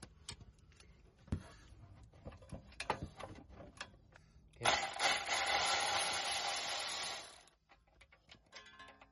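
Light clicks and knocks of tools being handled during a car's front-suspension repair. About four and a half seconds in, a loud steady hiss starts, lasts about three seconds and cuts off.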